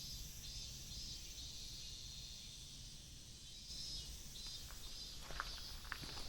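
Faint outdoor nature ambience: a steady high chirring of insects over a low rumble. About three-quarters of the way through, footsteps on the trail begin as a few sharp steps.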